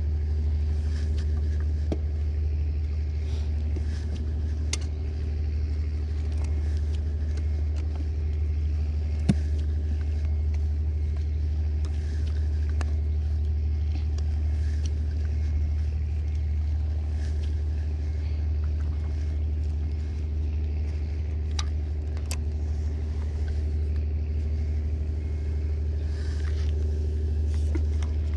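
A steady low engine drone that holds an even level throughout, with a few faint clicks and one sharper tick about nine seconds in.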